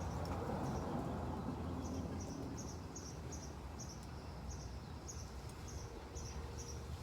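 An insect chirping steadily, short high chirps about two a second, over a low steady hum.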